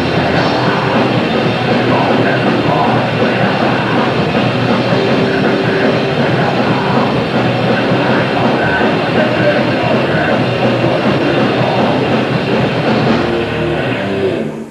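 Grindcore band playing live: a loud, dense wall of heavy music that stops abruptly near the end as the song finishes.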